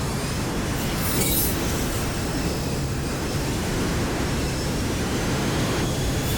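Steady rumbling wind and road noise from riding an e-bike, with a low steady hum and a brief high hiss about a second in.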